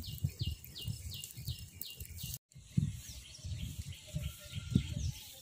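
A bird calling in a quick repeated series, about three short calls a second, over the low, uneven rush of an open wood fire. The sound drops out for a moment about halfway through.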